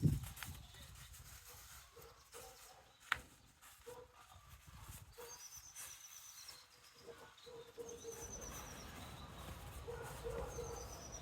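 A songbird singing a short, high, rapid trill three times, spaced a few seconds apart, with a thump at the start and a sharp click about three seconds in.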